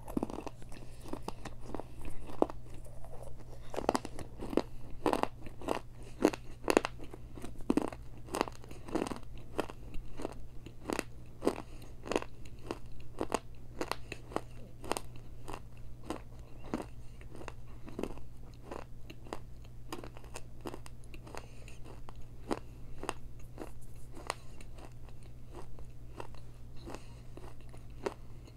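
Close-miked crunching and chewing of pieces of Mexican clay pot, about two crisp crunches a second. The crunches are loudest in the first third and grow softer and sparser toward the end.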